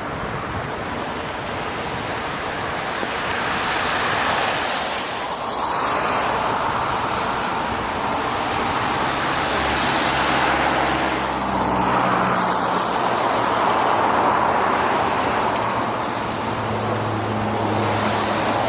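Road traffic passing on wet pavement: a steady tyre hiss with engine hum. Two vehicles pass with a falling sweep, about five and twelve seconds in.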